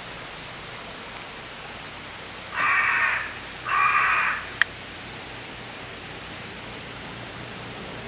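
A bird giving two harsh, drawn-out calls about a second apart, followed by a single short click, over a steady hiss.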